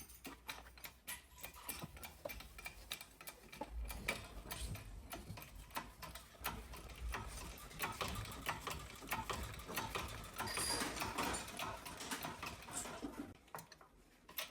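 Fast, irregular mechanical clicking and light metal clatter as a shop press and a wheel hub are set up to press out a wheel bearing.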